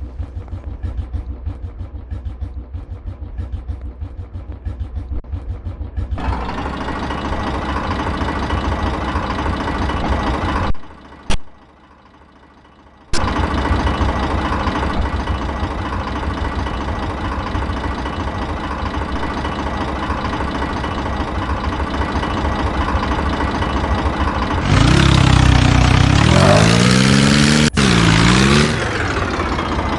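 Tractor engine running with a low, steady pulse that grows fuller about six seconds in and cuts out briefly around eleven seconds. Near the end it is revved up and down for a few seconds.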